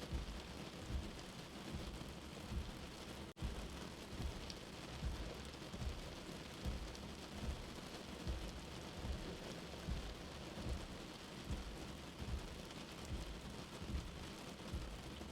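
Steady rain mixed with a soft, low heartbeat that beats evenly, a little more than once a second. The sound cuts out for an instant about three seconds in.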